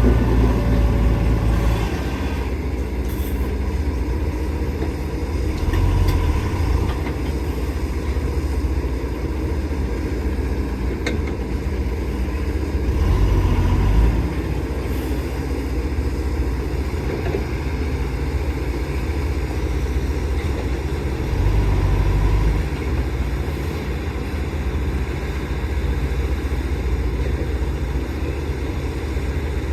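Heavy diesel earthmoving machinery running steadily, its engine swelling louder under load roughly every seven or eight seconds.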